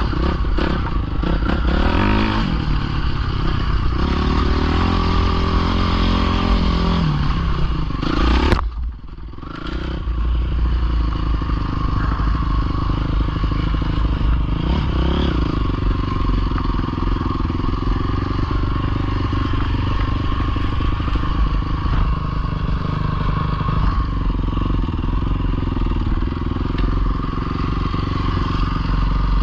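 Dirt bike engine running, its pitch rising and falling, with a sharp click and a brief dip about a third of the way in.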